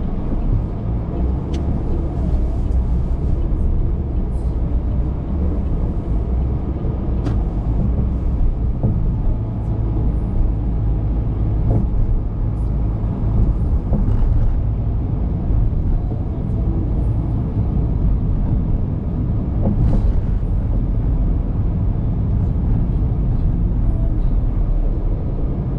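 Car driving on a road: a steady low rumble of tyres and engine, with a few faint ticks.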